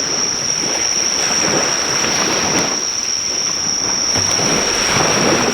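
Sea waves washing on the shore in a steady rushing surge, under a continuous high-pitched insect trill. A faint crackle or two from a driftwood fire.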